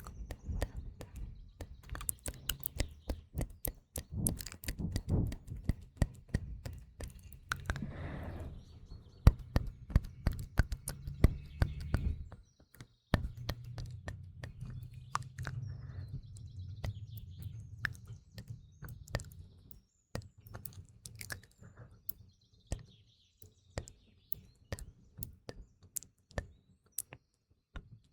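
Close-miked ASMR mouth sounds: a dense run of wet clicks and smacks, with faint recorded morning birdsong chirping in the background.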